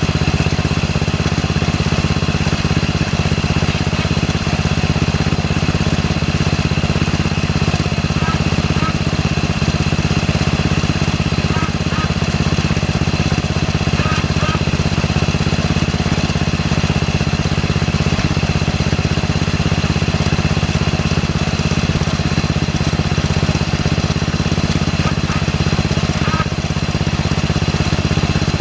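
Small engine running steadily at a constant speed, with no revving or change in pitch.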